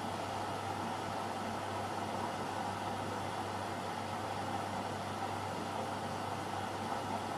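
AEG Lavamat Turbo washer-dryer running mid-cycle: a steady mechanical hum and whir with no change in pitch or level.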